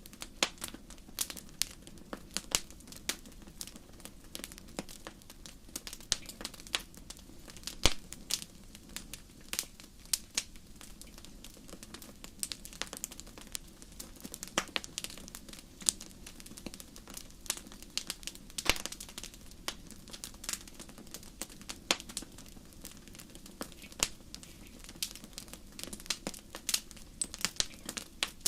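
Wood fire in a fireplace crackling: irregular sharp pops and snaps, some louder than others, over a steady low hiss of burning.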